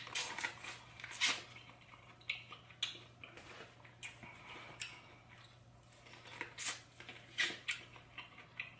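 Close-miked eating: a run of irregular sharp clicks, cracks and wet mouth smacks from someone eating, over a faint steady low hum.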